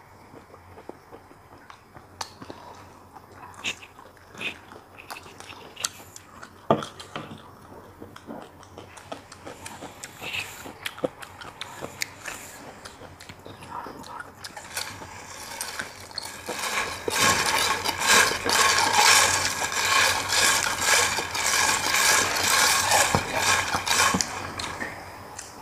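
Close-miked eating noises: scattered small clicks and chewing at first, then, from about two-thirds of the way in, loud rapid crackling that stops shortly before the end.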